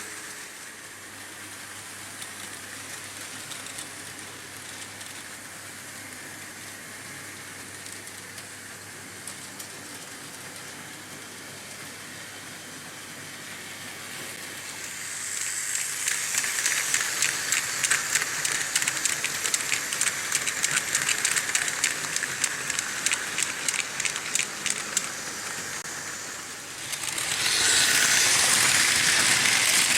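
Märklin H0 model trains running on pressed-steel M-track: a steady metallic rolling rattle. About halfway through it grows louder, with rapid clicking, and it is louder still near the end.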